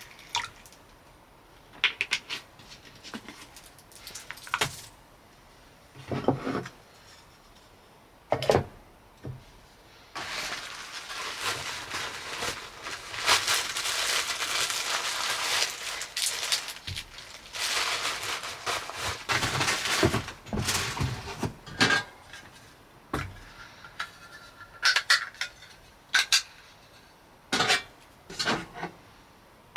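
Cookware and utensils being handled: scattered clinks and knocks of pots, dishes and cutlery. In the middle comes a steady rushing hiss lasting about ten seconds, after which the clinking resumes.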